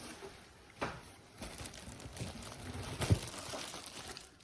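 Packaging being handled while unboxing the vacuum: rustling and crinkling, with a sharp click just under a second in and a knock about three seconds in.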